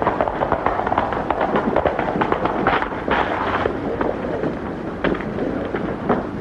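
Horses galloping, a dense, irregular clatter of hoofbeats.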